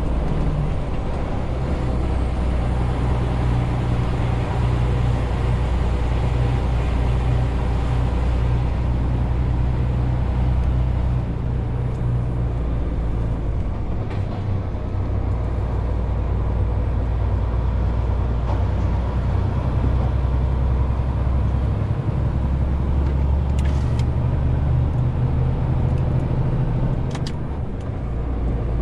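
Renault T520 truck's 13-litre six-cylinder diesel running steadily while hauling a 40-tonne load, its low drone shifting in pitch a few times, with a brief dip in level near the end. Two short sharp clicks sound in the later part.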